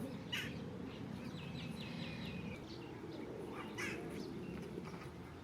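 Birds calling outdoors: a quick run of short, repeated high notes about two seconds in and a few brief calls elsewhere, over a steady low background noise.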